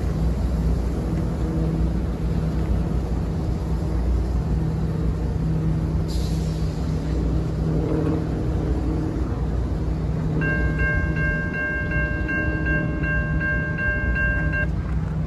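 Diesel freight locomotives rumbling steadily as the train moves away. Near the end the crossing's electronic bell rings, about two and a half dings a second for roughly four seconds while the gates rise, then stops.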